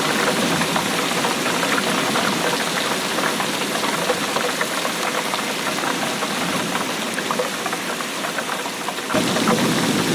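Steady rainfall: a dense, even rush of countless drops striking a surface. About nine seconds in, the sound turns fuller and deeper.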